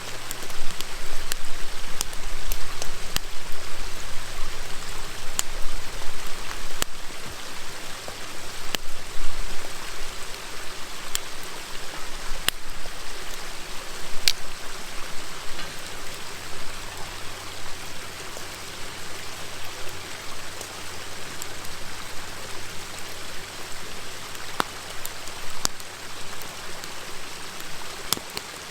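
Wood fire crackling with scattered sharp pops over the steady rush of a river stream. The pops come more often in the first half.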